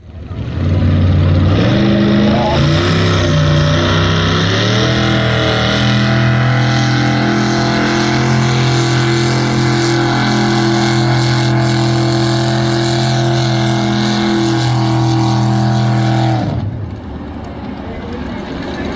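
V8 engine of a pulling tractor running hard: its revs climb over the first few seconds, hold steady at high revs for about ten seconds, then drop off suddenly near the end.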